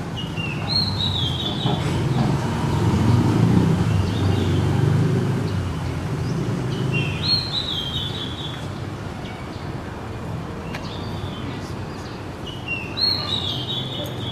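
A bird calling three times, about six seconds apart, each call a short run of high notes stepping down in pitch. A low rumble runs underneath, loudest in the first several seconds.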